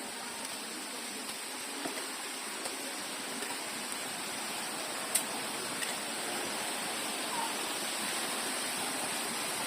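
Steady rush of flowing water, like a small waterfall or stream, with a few faint clicks.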